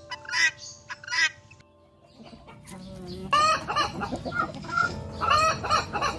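Chickens clucking and squawking: two short calls at the start, then two longer, louder bouts of calling in the second half.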